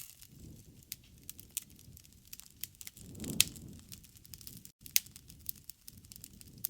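Wood fire crackling with frequent sharp pops over a low, steady rumble of burning wood. One louder pop comes about halfway through, and the sound drops out for an instant just before the end.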